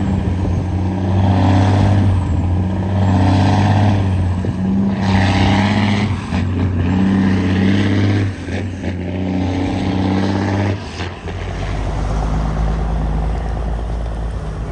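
Cat 6NZ diesel engine of a heavily loaded Kenworth W900L truck running loud under load, its note stepping as the revs change. There is a hiss about five seconds in, and about eleven seconds in the note falls away to a deeper, lower rumble.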